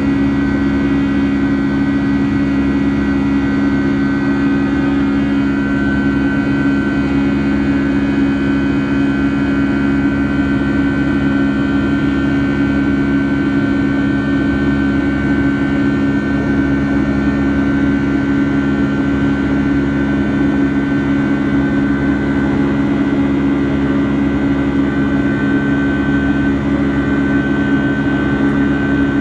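Boeing 757-200's Rolls-Royce engines running steadily, heard inside the cabin: a low drone with a steady whine on top.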